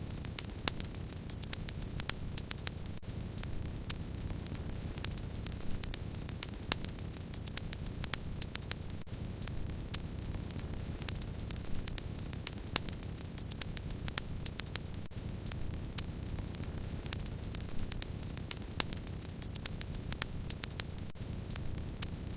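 Wood fire crackling: a steady low rustle of burning with frequent sharp crackles and pops.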